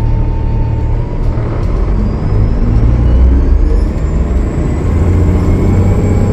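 Transit bus's Cummins ISL9 diesel engine running, a steady low rumble that swells in the middle, with a faint high whine rising from about two seconds in.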